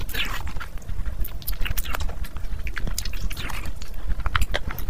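Close-miked wet chewing and lip-smacking of a mouthful of oily mutton curry and rice, made of many sharp mouth clicks. Two short wet slurps come just after the start and again about three and a half seconds in.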